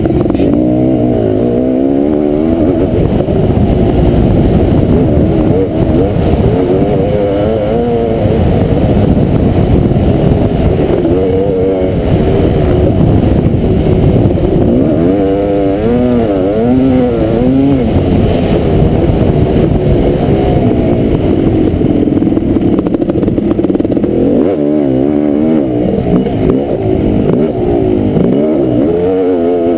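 Kawasaki KX500 two-stroke single-cylinder motocross engine racing at full throttle, its pitch repeatedly rising and falling as it revs up and backs off.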